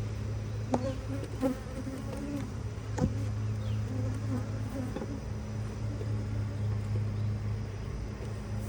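Honeybees buzzing in a steady hum around an open hive, with single bees flying past the microphone and shifting pitch. A few light knocks in the first few seconds.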